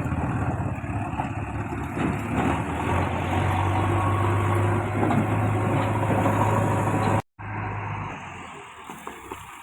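Diesel engine of heavy machinery running steadily with a low drone. It cuts off abruptly about three-quarters of the way through, and a quieter engine sound follows.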